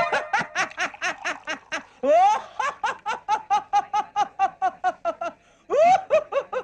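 A person laughing hard in quick, even bursts of about five a second, pausing briefly near the end before a fresh burst.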